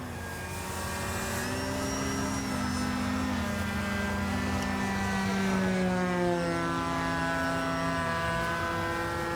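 Electric motor and propeller of a 6S-powered Flex Mamba 10 G2 RC aerobatic plane in flight: a steady whine whose pitch steps up and down with the throttle, gliding lower about six seconds in.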